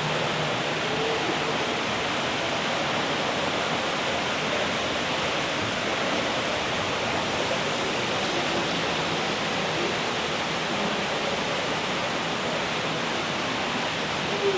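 Steady rushing noise like flowing water, even and unchanging throughout.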